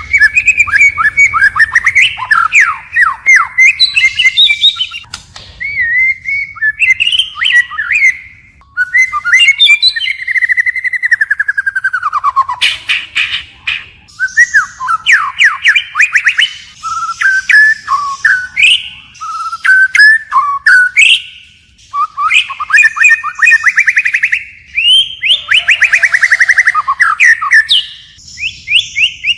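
White-rumped shama singing a long, varied song that keeps switching phrases: rapid trills, sweeping whistles and sharp high notes, with only brief pauses between phrases.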